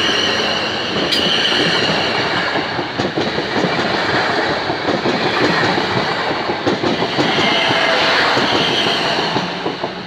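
Electric multiple-unit passenger train passing close by over a level crossing: a loud, dense clatter of wheels over the rail joints and crossing, with a high whine at the start and again near the end. The sound falls away as the last car clears, about ten seconds in.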